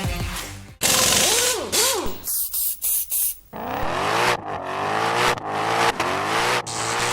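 Car engine revving in short cut-together bursts, its pitch climbing and breaking off several times, after a stretch of loud hissing in the first half.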